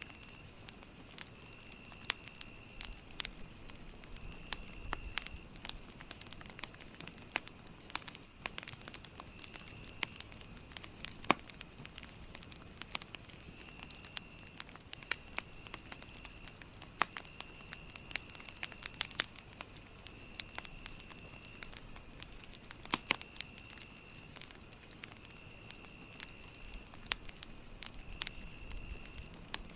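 Campfire crackling with sharp, irregular pops over a steady chorus of insects: an even chirping about twice a second, a continuous high drone, and trills about a second long that come and go.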